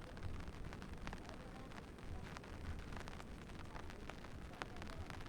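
Rainy-day outdoor ambience: a steady low rumble of wind on the microphone, with many scattered sharp ticks of raindrops and drips.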